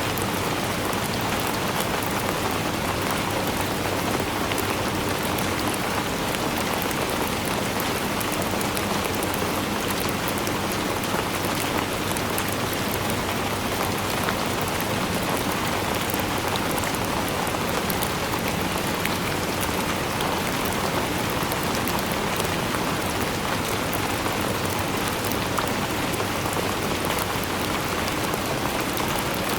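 Steady rainfall: an even hiss of rain with fine patter of drops striking a surface, unchanging throughout.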